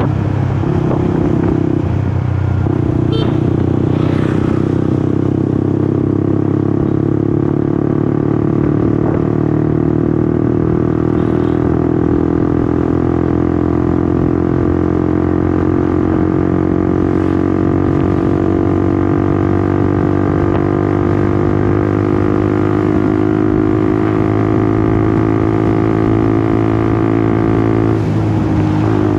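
Honda CBR150R's single-cylinder engine running under way, its note climbing slowly and steadily as the bike gains speed, with a short break in the note near the end.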